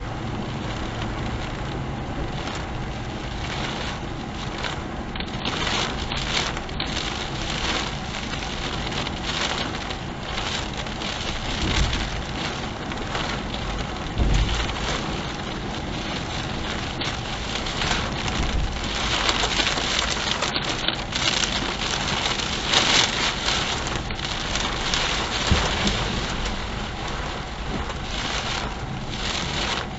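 Steady heavy rain in a thunderstorm, rising and falling in gusts, with two low thumps near the middle.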